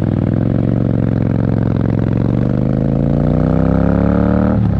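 Motorcycle engine accelerating hard in one gear, its pitch rising steadily, then dropping sharply near the end at an upshift.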